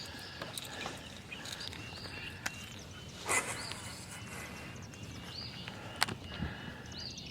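Faint outdoor background with a bird calling over and over in short arched chirps, and a couple of sharp clicks.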